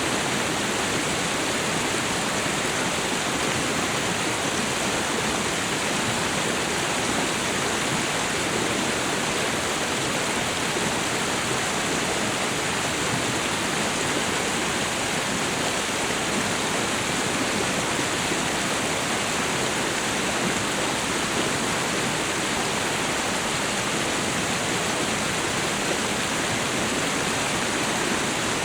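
Waterfall and river water rushing in a steady, even roar that does not change.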